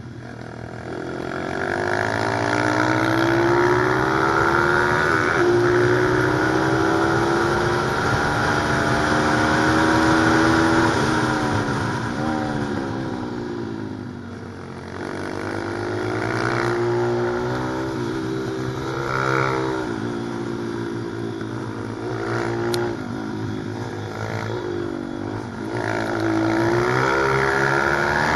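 Pit bike's single-cylinder engine revving hard and running through the gears. Its pitch climbs under acceleration and drops at each shift or when the throttle is closed, over and over through the lap.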